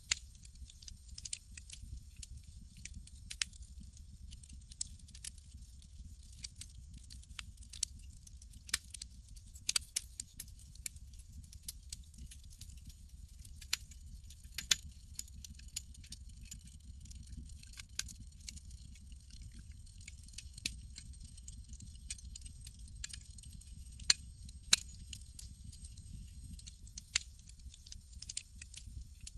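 Campfire crackling: irregular sharp pops and snaps, the loudest two close together near the end, over a steady low rumble and a high hiss.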